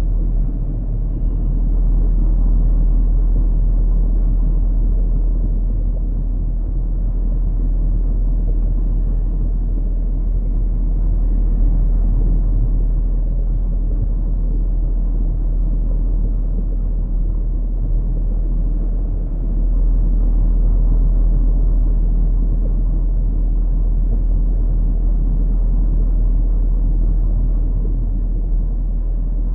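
A steady, deep rumbling noise with no distinct events, heaviest in the very low bass.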